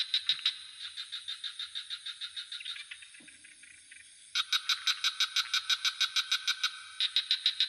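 Frogs calling in rapid trains of pulsed croaks, about five or six a second, pausing for a second or so near the middle and starting up again. Under them runs a steady high insect drone.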